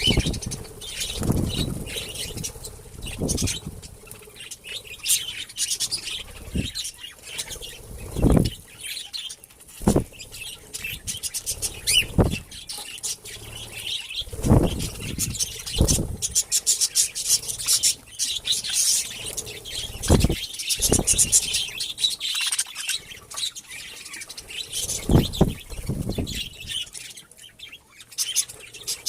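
Budgerigars chirping and chattering continuously, with short bursts of wing flapping that come as low whooshes every few seconds.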